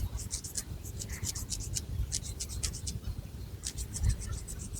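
Long fingernails scratching a scalp through long, thick hair in quick strokes, several a second, with a short pause in the middle. Low thumps from handling run underneath.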